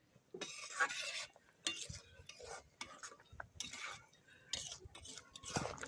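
Metal spoon stirring and scraping in a cooking pot, in irregular strokes.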